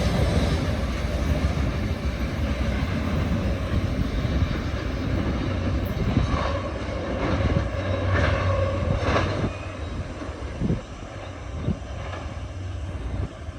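Freight train on CSX's Toledo Sub passing at speed: a steady rumble with the clatter of wheels on rail. The sound drops off about ten seconds in.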